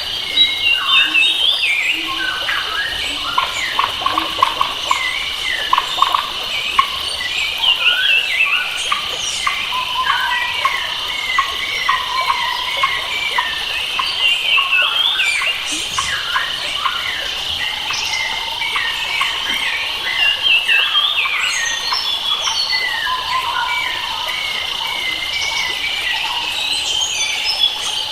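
Forest soundscape of many wild birds chirping and calling over a steady high insect drone, with no speech.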